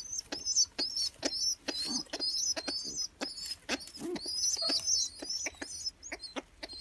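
Pet bird chicks begging to be fed by their parent: a rapid stream of high, squeaky chirps mixed with quick sharp clicks and taps.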